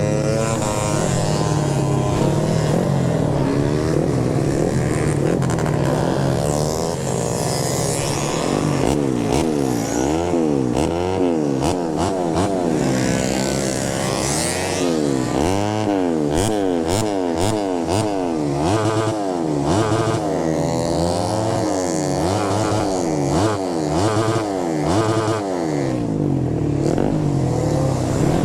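Motorcycle engine running as the bike is ridden, its pitch rising and falling again and again with the throttle, with a run of sharp clicks or knocks about halfway through.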